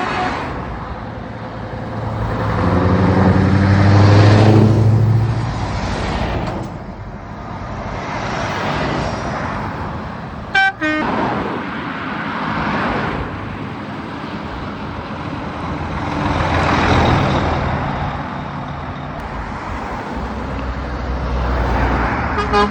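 Heavy trucks pulling away and driving past one after another, their engines swelling up loud and fading as each goes by. A short horn blast sounds about halfway through, and another right at the end.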